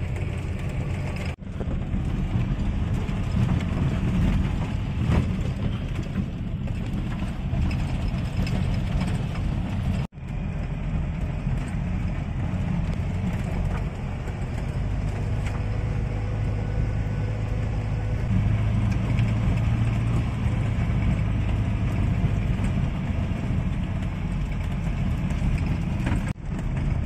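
Old Land Rover driving on a rough track, heard from inside the cab: a steady low engine and drivetrain rumble with road noise. It drops out suddenly and briefly about a second in, around ten seconds in, and just before the end.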